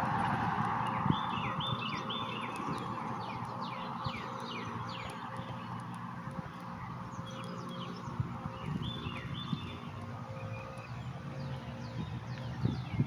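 Birds calling: many short, high chirps repeated throughout, over a steady hiss that fades over the first few seconds.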